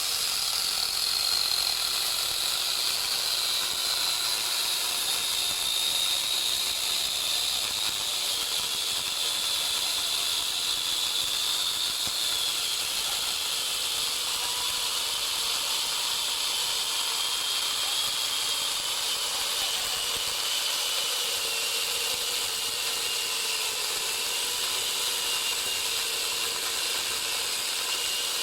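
Angle grinder fitted with a chainsaw attachment cutting through a hardwood madre de cacao trunk: a steady high motor whine over a hissing rasp of chain in wood, the whine's pitch sinking slowly as the hard wood loads the motor.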